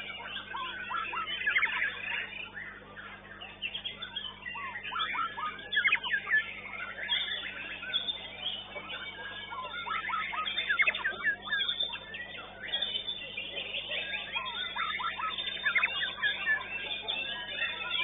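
White-rumped shama singing a fast, varied run of sweeping whistles and chirps in bouts, with short lulls between them.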